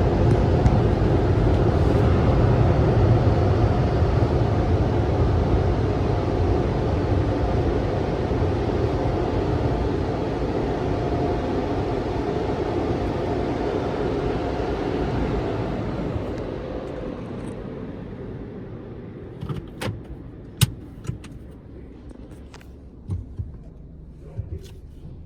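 Car wash dryer blowers running with a steady rush of air, then winding down and fading out about two-thirds of the way in. A few sharp clicks and knocks follow near the end.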